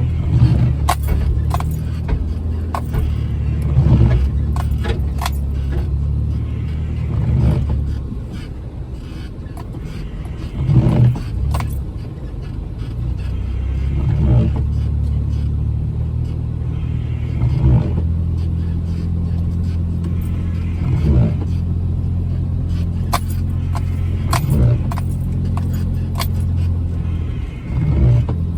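Jeep Wrangler engine running steadily at low trail speed while the vehicle crawls over rough, snowy ground, with repeated knocks and rattles from the body and suspension every second or two.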